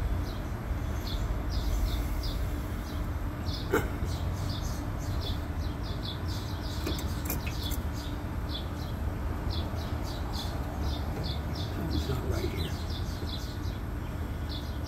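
A bird chirping over and over, about three short chirps a second, over a steady low outdoor rumble. A single sharp click of a tool on metal comes about four seconds in.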